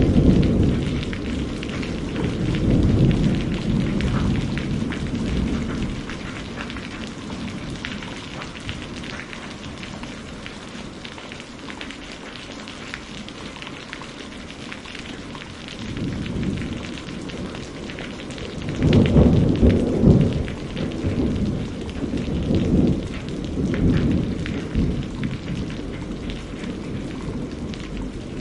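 Steady rain with rolling thunder. A low rumble fades away over the first few seconds. Another rumble builds about halfway through, is loudest around two-thirds of the way in, and then dies away.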